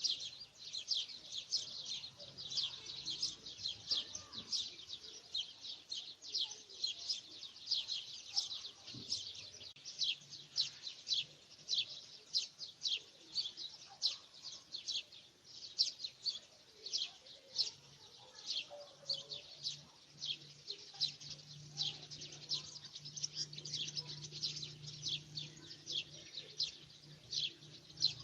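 A bird chirping over and over, two or three short high chirps a second. A faint low hum comes in about two-thirds of the way through.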